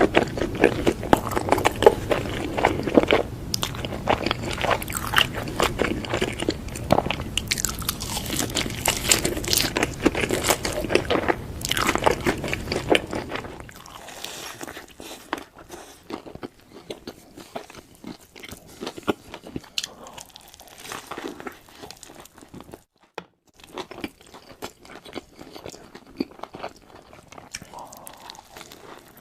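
Close-miked eating of a burger and fries: crunchy bites and chewing, dense and loud for the first half, then softer, sparser chewing.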